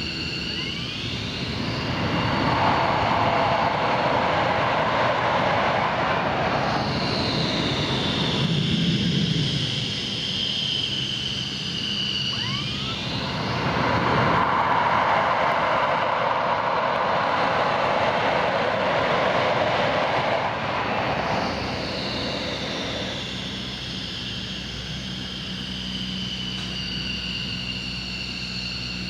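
F-15 fighter jet's twin turbofan engines running: a high turbine whine that bends up and down, with the rush of jet noise swelling loud twice, about two seconds in and again about fourteen seconds in.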